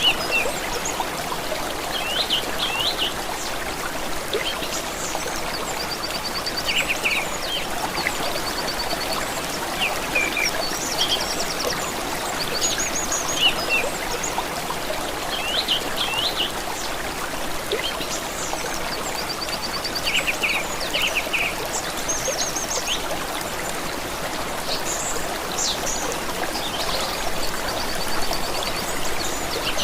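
Running water, a steady trickling rush, with birds singing over it: short high trills and quick chirps repeated every second or two.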